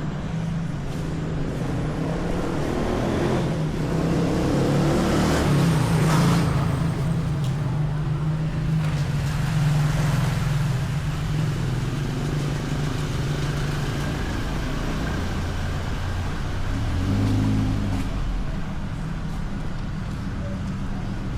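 Road traffic: motor vehicles running and passing close by, with a steady engine hum. It swells loudest about five and ten seconds in, and another engine comes up briefly near the end.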